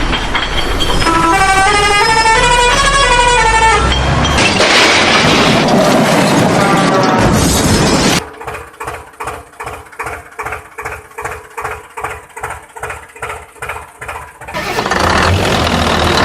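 Cartoon soundtrack effects. A short melodic jingle gives way to a noisy vehicle sound. Then a horn-like tone beeps at a steady pitch about three times a second for roughly six seconds before the noisy vehicle sound returns.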